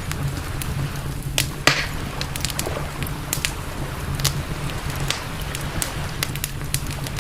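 Campfire burning wood, crackling with sharp pops at irregular intervals, the loudest about one and a half seconds in, over a steady low rumble.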